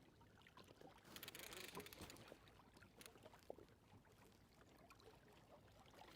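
Near silence: faint water lapping around a kayak, with a few small clicks and knocks, a little louder about a second in.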